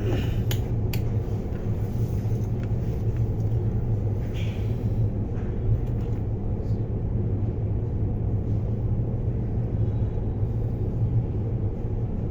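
Steady low hum and rumble, with a few faint light clicks and taps.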